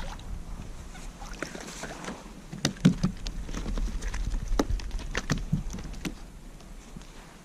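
Scattered small knocks, clicks and water splashes on a kayak as a just-landed trout and tackle are handled, with the loudest knock about three seconds in.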